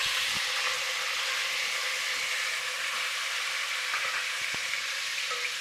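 Tomato slices sizzling steadily in hot oil with fried onions in a pot, with a few faint knocks as a spatula stirs them.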